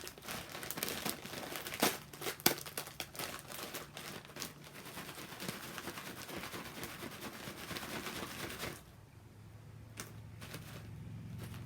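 Plastic snack packaging crinkling and rustling as it is handled, with a few sharper crackles about two seconds in. The crinkling stops about nine seconds in, leaving a faint low hum.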